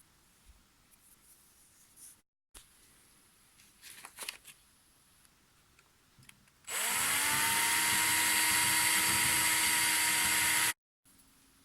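A small electric power tool spins up about two-thirds of the way in, runs at a steady high speed for about four seconds, then cuts off abruptly. Before it there are only a few faint handling clicks.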